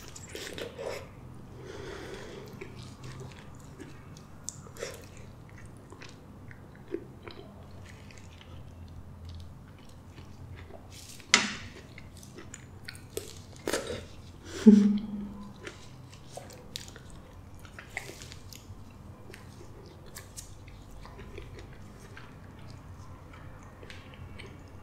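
Close-miked wet chewing of soft custard apple flesh, with many small lip smacks and mouth clicks, louder smacks about eleven and fourteen seconds in, and a short hum near fifteen seconds.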